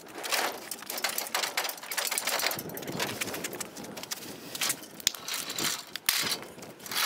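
Irregular clattering, knocking and scraping of an engine hoist (cherry picker) being handled and unloaded from a pickup truck bed.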